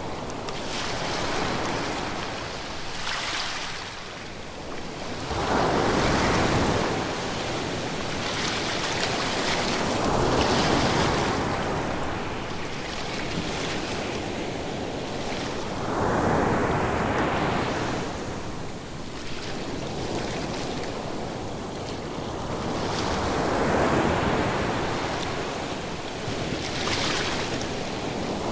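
Ocean surf: waves breaking and washing back. The noise swells up every five to eight seconds and eases between breakers.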